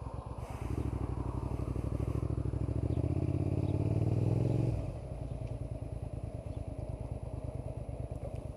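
Suzuki SV650 V-twin motorcycle engine: its pulsing idle picks up about half a second in, the revs climbing steadily for about four seconds, then falling suddenly back to a pulsing idle.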